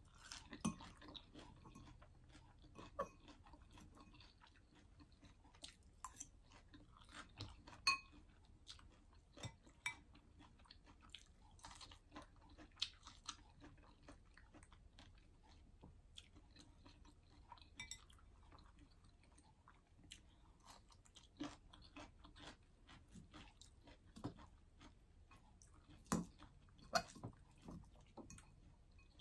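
A person chewing arugula salad and sautéed shishito peppers: quiet crunching and mouth sounds with scattered short clicks and crackles.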